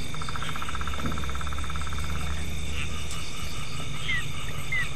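Night chorus of frogs and insects: a rapid pulsed trill lasting about two seconds over a steady high-pitched insect drone, with short falling chirps near the end and a low steady rumble underneath.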